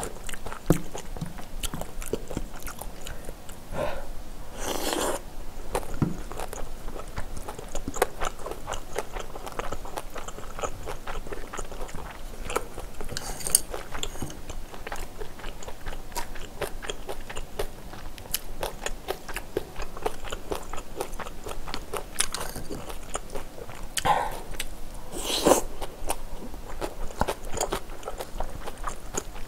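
A person chewing and crunching food close to the microphone: a steady run of small crisp crunches, with a few louder hissing sounds now and then.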